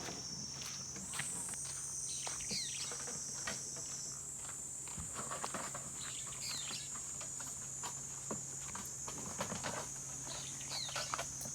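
A steady, high-pitched insect chorus that steps up in pitch about a second in, with a few short bird chirps over it and scattered light clicks.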